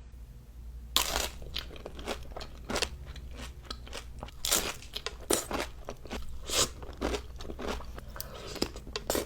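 Close-miked crunching and chewing of crisp food, a run of irregular crackly bites and chews starting about a second in.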